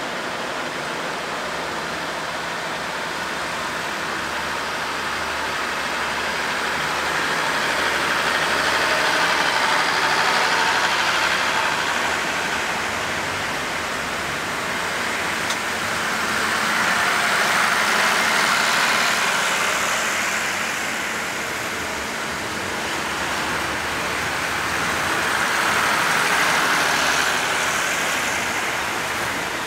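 Diesel express train at the station platform. Its engine and running noise swell and ease three times.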